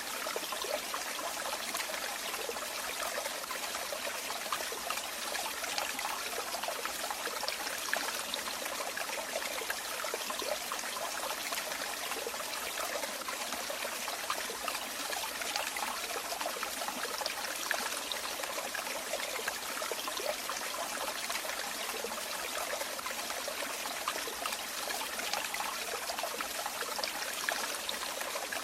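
Running water trickling and splashing steadily, like a small stream or a spout of falling water, with a bright, even splashing and no deep rumble.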